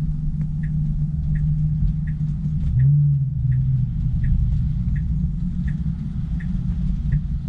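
Car turn signal ticking steadily, about one and a half ticks a second, over the low rumble and hum of a Tesla's cabin; the hum shifts in pitch briefly about three seconds in.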